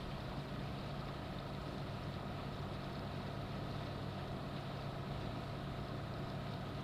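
Sailboat's inboard engine running steadily with an even low hum while motoring across the lagoon.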